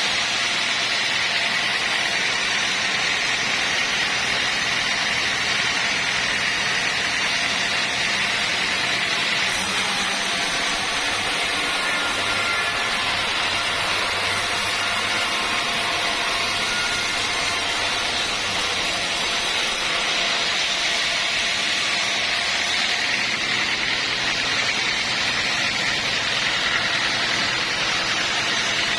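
Sawmill machinery running steadily, a loud, even mechanical noise. The sound turns brighter and hissier for about ten seconds from about ten seconds in.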